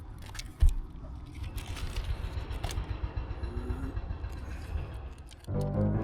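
Scattered clicks and crinkles of sticky sealing tape being handled on a camper roof, over a steady low rumble, with one sharp thump about two-thirds of a second in. Background music comes in near the end.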